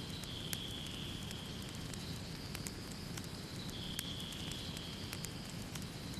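Fireplace fire crackling, with scattered sharp pops over a steady low rumble and a faint high hiss.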